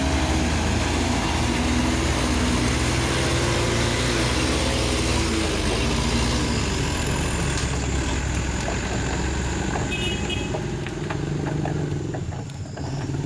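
Truck engine running steadily as the truck drives along, easing off slightly near the end.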